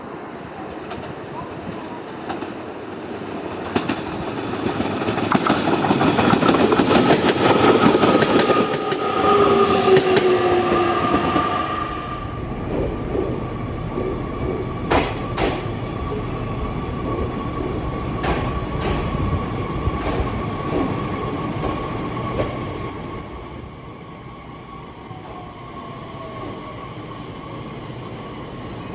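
A JR Kyushu 817-series electric train running: wheel and motor noise grows louder, with a whine and a slightly falling tone as it passes. About 12 s in, the sound changes abruptly to a steadier, quieter running sound with a constant high whine and a few sharp clicks.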